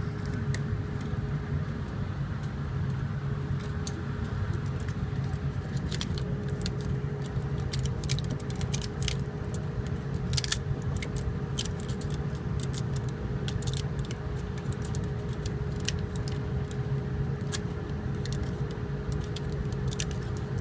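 Cartridges being pressed one by one into a pistol magazine: a run of small, sharp metallic clicks that comes thicker after the first several seconds, over a steady background hum.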